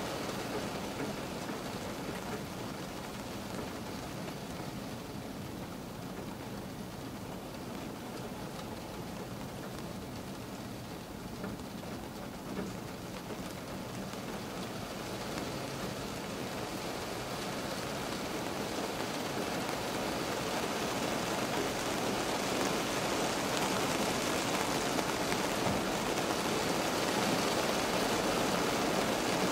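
Rain falling on a car, heard from inside the cabin: a steady patter that grows heavier over the second half.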